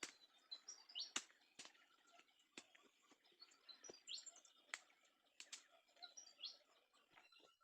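Faint wild birds chirping: short curved chirps repeated every second or two, over a quiet background with scattered sharp clicks or snaps.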